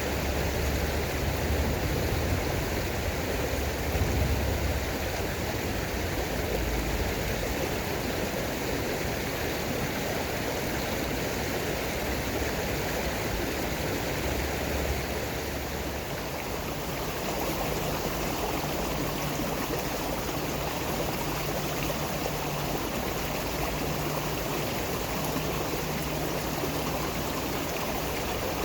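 Stream water flowing steadily, with an even rush that changes slightly in character a little past halfway through.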